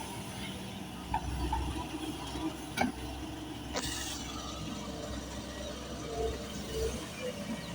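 Plastic toy trucks being handled: scattered small clicks and knocks over a steady low rumble, with a sharper knock about three seconds in and another about four seconds in.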